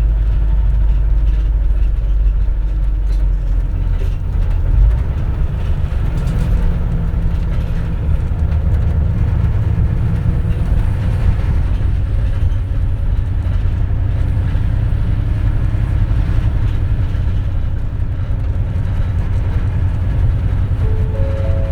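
Cabin sound of a CNG-powered city bus: the natural-gas engine rumbles low at first, then about five seconds in the sound changes as the bus gets under way and keeps running. A brief run of rising tones comes near the end.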